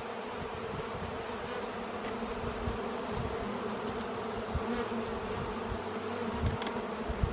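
A colony of honey bees buzzing in an opened hive: a steady, dense hum of many bees at once, with a few soft low bumps.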